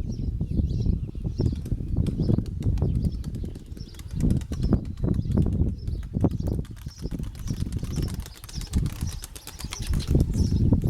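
Pigeons' wings flapping and clattering, heard under strong gusts of wind buffeting the microphone, with faint high chirping.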